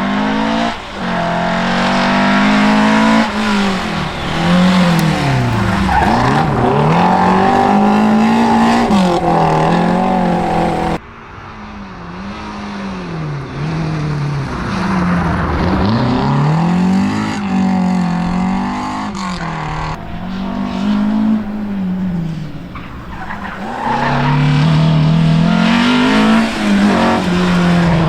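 Rally car engines revving hard, their pitch climbing and falling again and again through gear changes and throttle lifts, with tyre noise on the stage. The sound cuts off abruptly about eleven seconds in and again about twenty seconds in, as a fresh pass begins each time.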